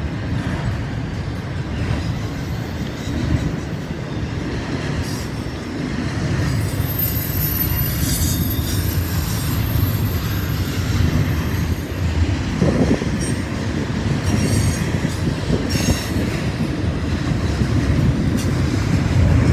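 Freight train rolling past while picking up speed, its cars' steel wheels rumbling steadily on the rails with brief high-pitched wheel squeals now and then.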